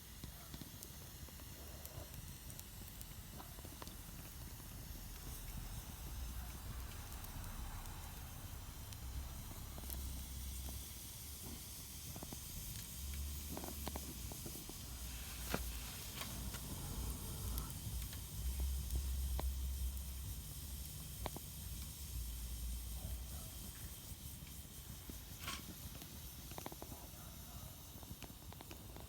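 Wood fire burning in a Solo Stove Campfire stove: a steady hiss with scattered crackles, over a low rumble that swells in the middle. A few sharper pops stand out, one about halfway through and one near the end.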